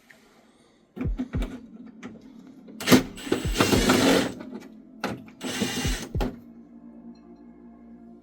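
Clicks and knocks of hand tools and plastic trim as Phillips screws are undone around a car headlight, with two bursts of about a second each of a tool working a screw, about three and five and a half seconds in.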